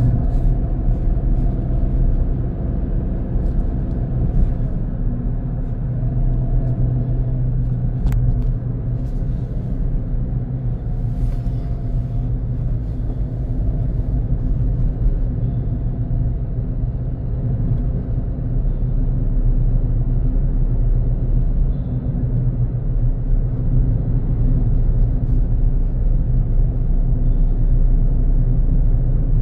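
A car driving on a road: a steady low engine hum and tyre rumble. There is a single click about eight seconds in.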